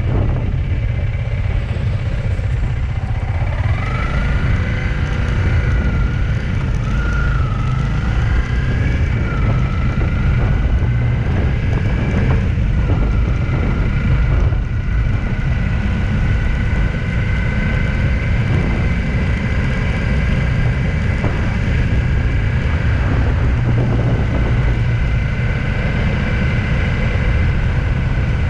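Road vehicle on the move: a steady low rumble of engine and road noise, with a whining tone that rises about four seconds in, wavers for a few seconds, then holds steady.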